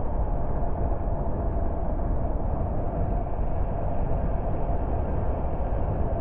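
A car driving along at steady speed: continuous low engine and tyre road noise with no change in pace.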